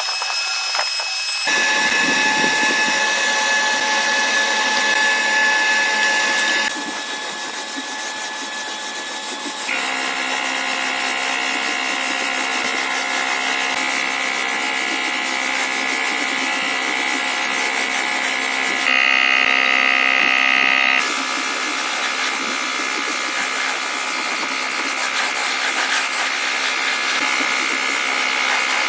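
Power tools running with a steady whine, changing abruptly to a different pitch and loudness several times.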